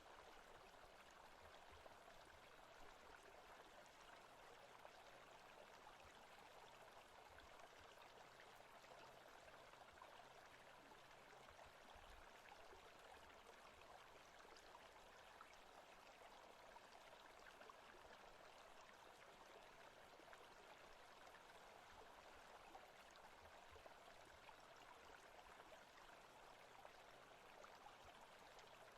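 Faint, steady forest-sounds ambience: an even rushing noise, most like running water, that does not change.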